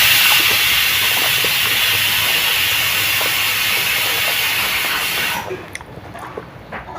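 A loud, steady hiss that cuts off suddenly after about five seconds, followed by soft mouth clicks of chewing.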